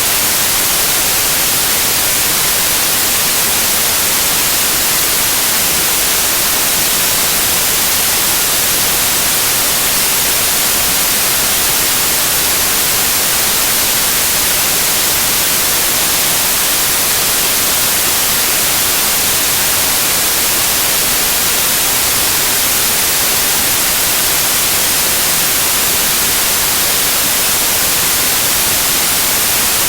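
Loud, steady white noise: an even hiss with no change, bright and heavy in the treble.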